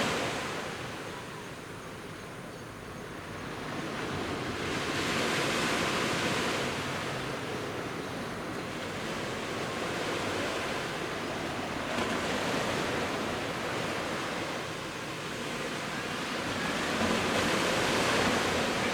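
Sea surf breaking and washing up a beach in slow surges: a wave comes in about every five or six seconds, each swelling up and fading, with the loudest near the end.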